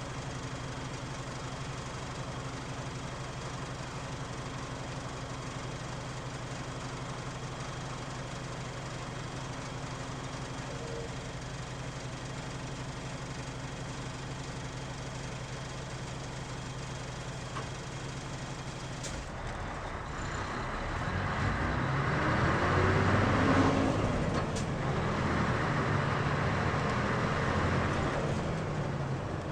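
Mitsubishi Fuso Aero Star city bus's diesel engine idling steadily with a heavy vibrating drone. About two-thirds of the way through it revs up as the bus pulls away, its pitch rising and falling through the gears, then eases off near the end.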